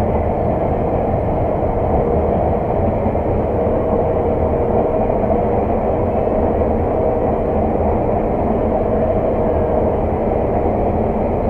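Claas Lexion 600 TT combine harvester running steadily under load while cutting oilseed rape, heard from inside the cab as an even machine drone with a steady hum.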